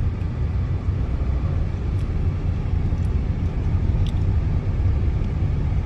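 Steady low rumble of vehicle road and engine noise, with two faint ticks about two and four seconds in.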